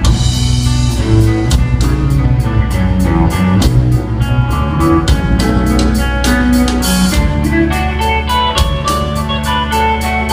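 A rock band playing an instrumental passage: guitar over a drum kit, with evenly spaced cymbal strokes keeping a steady beat and no singing.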